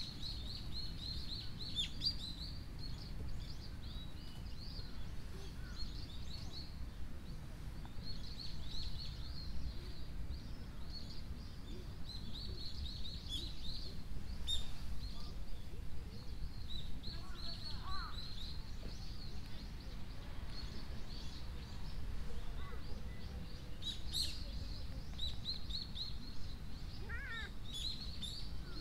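Small birds chirping in repeated bouts of quick high notes, over a steady low rumble of outdoor background noise.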